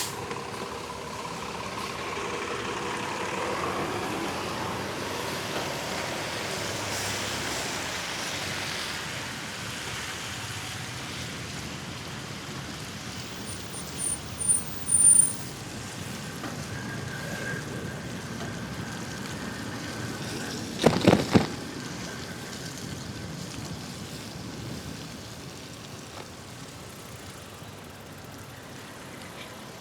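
City street traffic heard from a moving bicycle: steady road noise with vehicles passing, swelling and fading. About two-thirds of the way through, a quick cluster of loud sharp knocks stands out.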